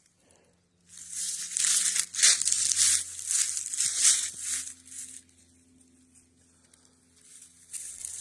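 Footsteps crunching through dry fallen leaves, about two steps a second, pausing about five seconds in and starting again near the end.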